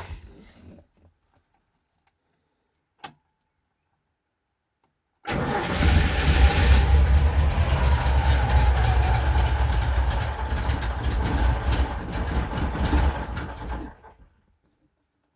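ZAZ 968M's air-cooled V4 engine turning over on a cold start after long standing: it starts suddenly about five seconds in, runs at an even pace for about nine seconds, then stops abruptly. A single click sounds a couple of seconds before it.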